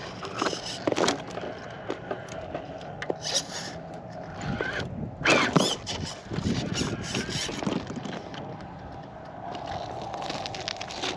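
1/10-scale RC rock crawler working over rock: a faint steady electric motor whine under irregular scrapes and knocks of tires and chassis on stone, the loudest scrape about five seconds in.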